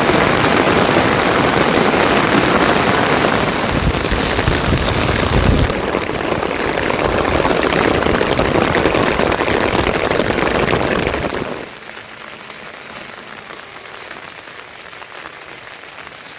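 Heavy rain pouring down, a loud, even hiss, with a low rumble about four to five and a half seconds in. About twelve seconds in it drops abruptly to a much quieter, lighter patter of rain.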